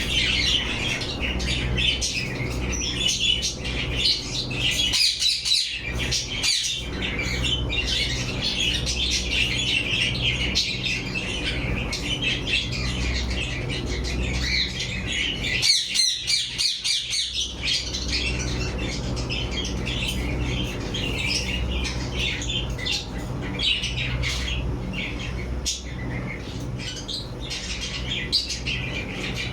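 A mixed aviary flock of parrots, budgies and Indian ringnecks, chattering, chirping and squawking continuously, over a steady low hum.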